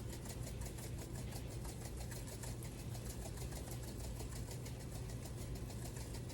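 A small motor running: a steady low hum with a fast, even ticking, about seven or eight ticks a second.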